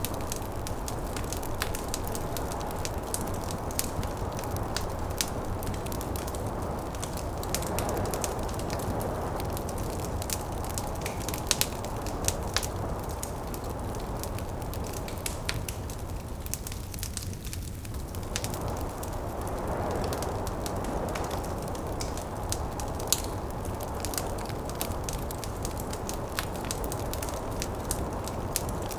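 Wood fire crackling in a fireplace, with frequent sharp pops and snaps, over steady snowstorm wind that swells twice and eases off briefly in between.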